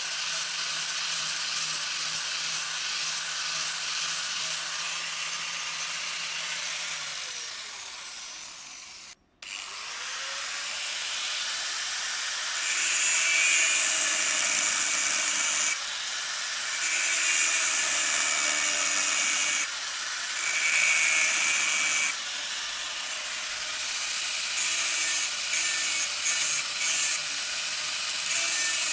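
Electric power tool running, winding down and then starting up again. Then come strokes of about three seconds each of work pressed against its spinning wheel or belt, a loud rasping grind with short gaps between, and the strokes get shorter near the end.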